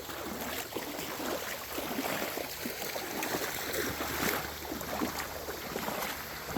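Shallow creek water splashing and trickling in small, irregular splashes.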